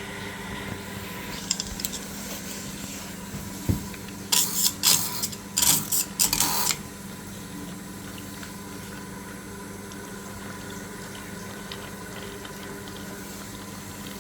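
Water running in a domestic boiler and hot-water system under a steady low hum. In the middle there are several loud hissing spurts lasting a couple of seconds.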